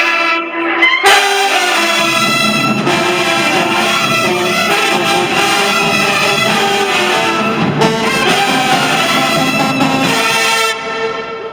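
High school marching band's brass section playing a hip-hop tune, with a sharp accent about a second in and deeper parts joining about two seconds in; the playing breaks off near the end.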